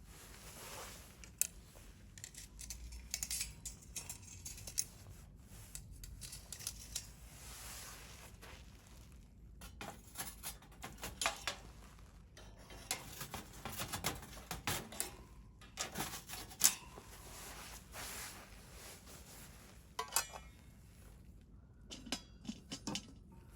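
Wood fire crackling, with irregular sharp snaps and pops over a soft hiss of burning. The loudest pop comes about two-thirds of the way through.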